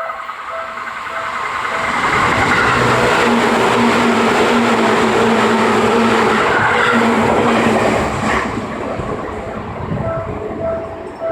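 Japanese level crossing bell ringing in a steady ding-ding rhythm, a little under twice a second. About two seconds in, a Seibu 2000 series electric train passes over the crossing for several seconds, its wheels and motor hum drowning out the bell. The bell is heard again near the end as the train goes away.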